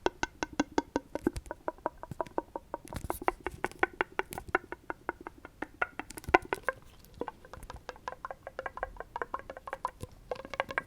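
Quick, gentle tapping on a hard object that rings briefly at a few fixed pitches, about seven taps a second, with one louder knock about six seconds in.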